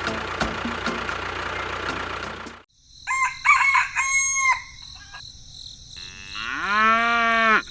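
A noisy stretch cuts off sharply about two and a half seconds in. Chickens call and crow in several short phrases, then a cow gives one long moo that rises and then holds level near the end.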